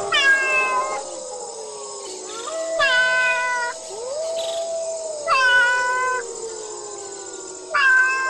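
Cat meowing: four long, drawn-out meows about two and a half seconds apart, each dropping in pitch at its start and then held.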